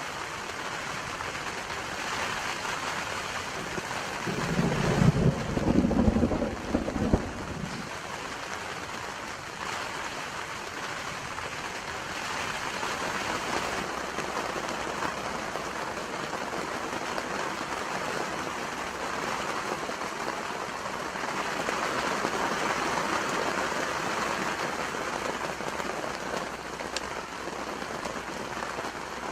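Steady rain falling, a continuous hiss. A louder low rumble comes about five seconds in and lasts around three seconds.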